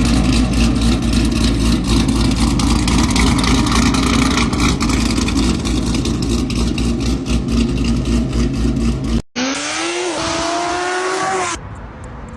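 Chevrolet Corvette C7 Z06's supercharged V8 running loud and steady with a rough, crackly edge. After a cut, it accelerates hard, its pitch climbing with a brief dip partway, then drops to a much quieter level near the end.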